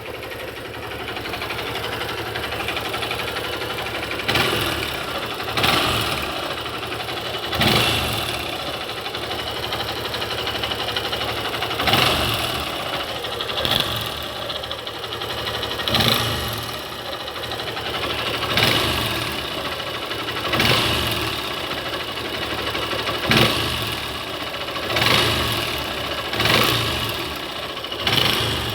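Honda Bros 150 single-cylinder four-stroke engine running, with about a dozen short revs every couple of seconds. It carries a strange noise whose cause the owner does not know.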